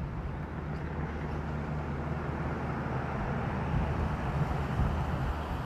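Road traffic: a steady rush of a vehicle passing on the street, swelling a little after the middle.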